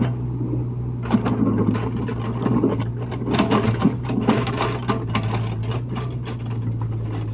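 Mini excavator's engine running steadily under load, with irregular knocks and clatter from the machine working the road surface.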